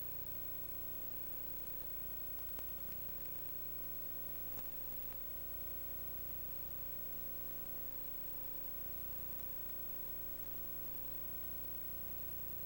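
Steady electrical hum with a few fixed tones under a constant hiss, broken by two faint clicks a couple of seconds apart.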